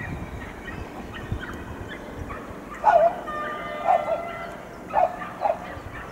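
Z 5300 'P'tit Gris' electric multiple unit running away, its low rumble fading over the first second. From about three seconds in, four loud short animal-like calls come roughly a second apart, louder than the train.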